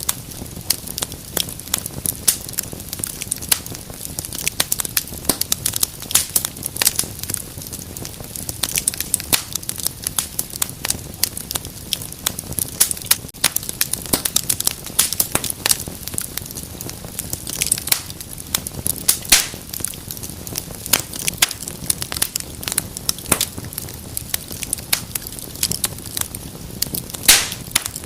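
Wood fire burning in a fireplace, crackling steadily with many sharp pops and snaps over a low rumble of flame. A louder snap comes near the end.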